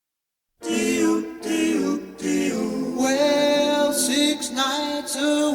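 1950s doo-wop vocal group singing the song's opening harmony intro, coming in after about half a second of silence.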